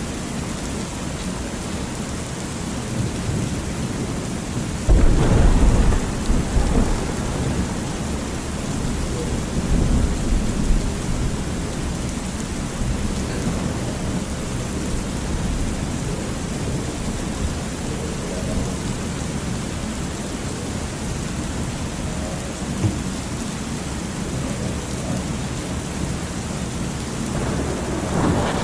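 Thunderstorm with steady rain: a loud thunderclap about five seconds in that rolls on for a couple of seconds, a smaller rumble around ten seconds, and thunder building again near the end.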